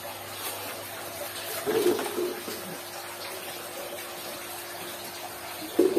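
A bird's low call, heard twice: once about two seconds in and once near the end, over a steady background hiss.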